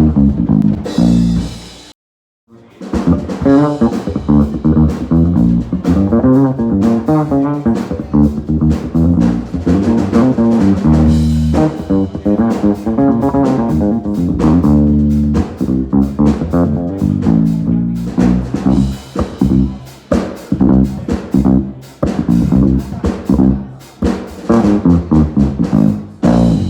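Music played on bass guitar, guitar and drum kit, a steady band groove that cuts out briefly about two seconds in.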